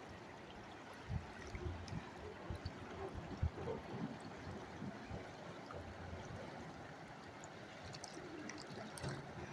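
Fast-flowing mountain river rushing, a faint, even hiss of water, with a few low thumps in the first few seconds.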